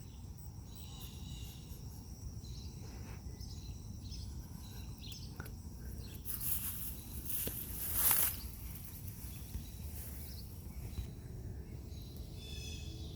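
Outdoor ambience of insects trilling steadily at a high pitch, over a low rumble. A louder rustling swish comes about six to eight seconds in, and a short run of bird chirps near the end.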